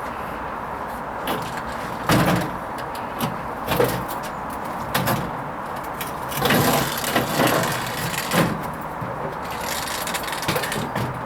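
Hoover Vision HVP16 washing machine in its Silks wash cycle, the drum turning the load in irregular surges of swishing and knocking over a steady background noise.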